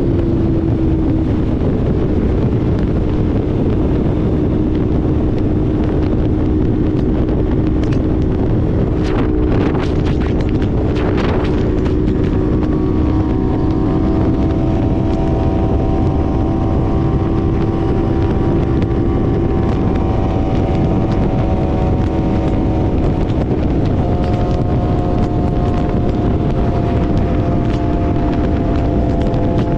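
Yamaha R3's parallel-twin engine running at a steady cruise, with heavy wind rush on the microphone. A second, higher steady tone joins about twelve seconds in.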